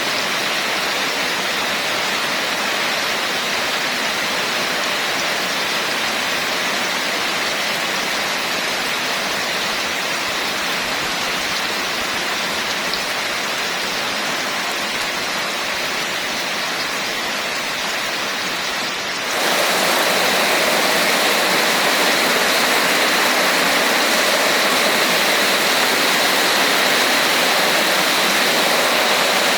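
Steady heavy rainfall, a dense even hiss. About two-thirds of the way through it jumps suddenly to a louder, brighter rush and stays there.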